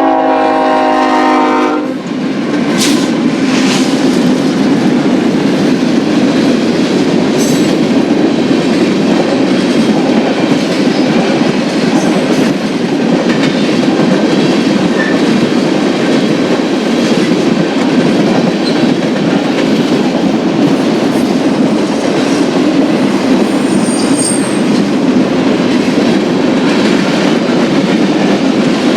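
Freight locomotive horn sounding a chord that cuts off about two seconds in, followed by the steady loud rolling noise of a freight train's cars passing on the rails.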